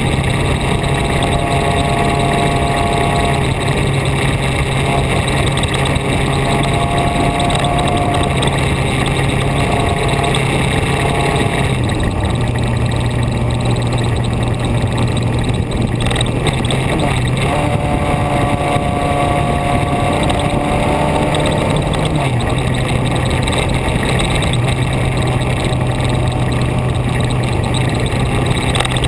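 Onboard sound of a road vehicle under way: the engine runs steadily under constant wind and road noise. Its note shifts about twelve seconds in and again about ten seconds later, and a fainter whine rises and falls.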